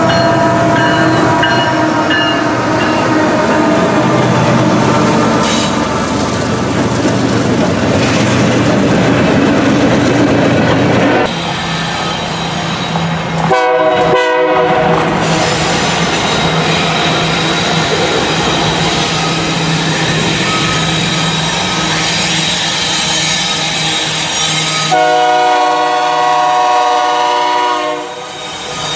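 Trains running by with their horns sounding, heard as several short clips spliced together, so the sound changes abruptly a few times. The loudest horn chord comes near the end.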